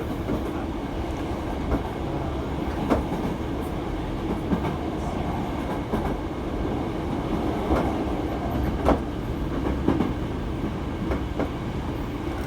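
Electric commuter train running, heard inside the passenger car: a steady low rumble with irregular sharp clacks from the wheels over the track.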